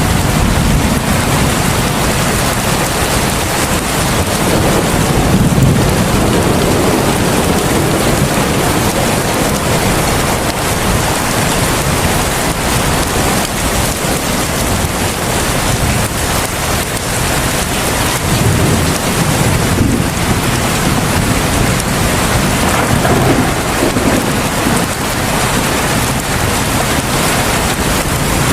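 Heavy rain falling in a steady, dense hiss, with low rumbles swelling up a few times.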